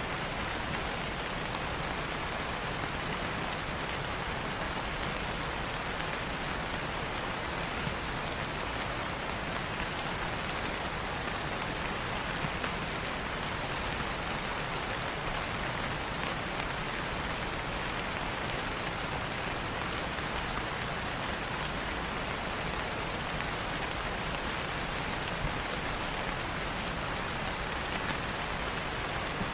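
Steady rain falling on leaves, an even hiss with the odd louder drop.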